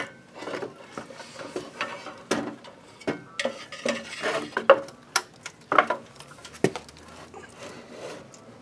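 Irregular clinks, knocks and clatter of metal parts and tools being handled while working an engine into place, a dozen or so sharp hits scattered through, the loudest a little under five seconds in.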